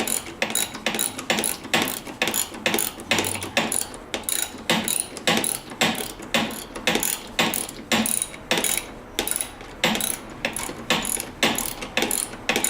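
Hand socket ratchet wrench clicking in quick runs of strokes as bolts are worked loose by hand, with a short lull about two-thirds of the way through.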